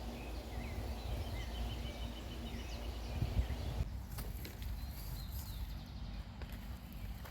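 Small birds chirping and calling, with a rapid run of short, evenly spaced notes about a second in, over a steady low rumbling noise.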